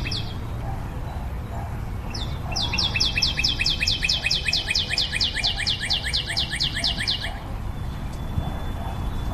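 A bird's rapid trill of short, falling chirps, about seven a second, starting a couple of seconds in and stopping about two seconds before the end, with a brief run of the same chirps at the start, over steady low background noise.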